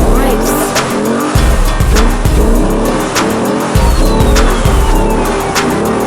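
Hip-hop track with heavy bass and a steady beat, mixed with muscle car engines revving and tyres squealing during donuts.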